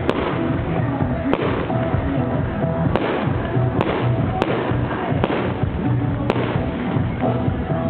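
Fireworks bursting in the sky, about seven sharp bangs at irregular intervals, over music playing throughout.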